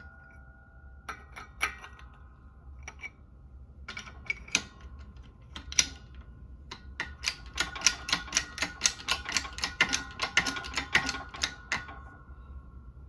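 Hand tools working on metal suspension parts: scattered metallic clicks, then a quick run of clicks about four or five a second for several seconds, with a faint metallic ring held under them.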